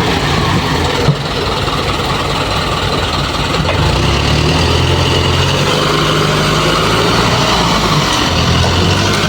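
Isuzu dump truck's diesel engine running near idle, its note shifting up and down a few times, with a short knock about a second in.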